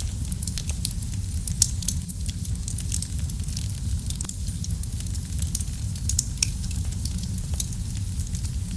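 Fire burning in a fireplace, crackling with frequent sharp pops over a steady low rumble of the flames; one pop about a second and a half in is louder than the rest.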